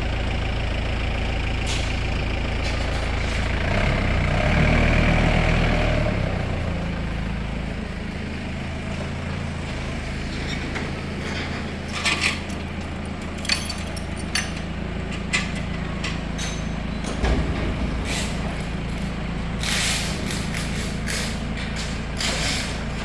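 Heavy vehicle engine running steadily, louder for a couple of seconds about a quarter of the way in, with a string of sharp knocks in the second half.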